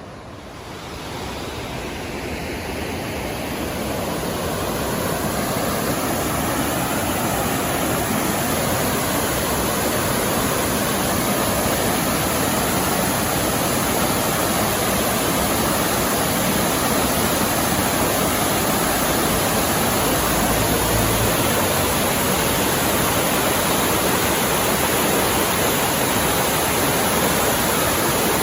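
Mountain stream rushing over rocks, a steady dense rush that swells over the first few seconds and then holds.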